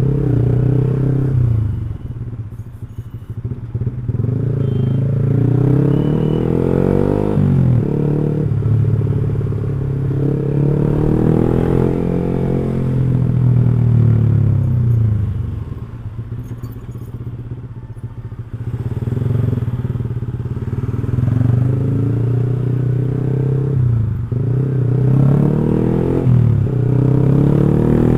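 Motorcycle with an X1 Speed Pro One aftermarket racing exhaust being ridden. The engine note climbs and drops sharply at gear changes, about a third of the way in and twice near the end. In between it eases off and goes quieter for a few seconds before pulling again.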